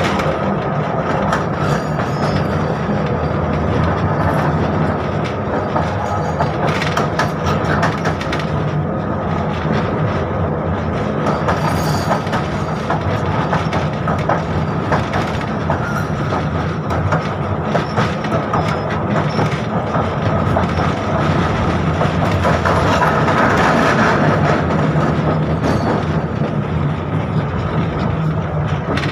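A 1987 71-605 (KTM-5M3) tram running along the track, heard on board: a steady rumble with wheels clattering and knocking over the rails, under a thin steady whine.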